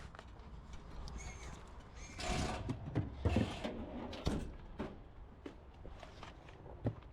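A person moving about and handling gear: scattered footsteps and knocks, with two short scraping, rustling noises about two and three seconds in and a sharp knock near the end.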